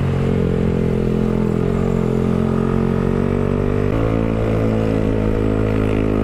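Yamaha motorcycle engine running steadily under load as the bike climbs uphill, its note changing abruptly about four seconds in.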